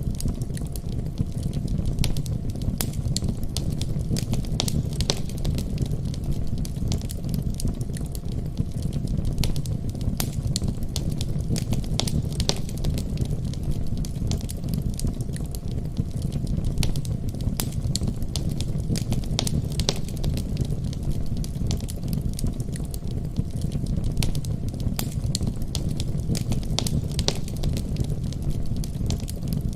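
Wood fire burning in a fireplace: a steady low rumble with frequent sharp crackles and pops scattered throughout.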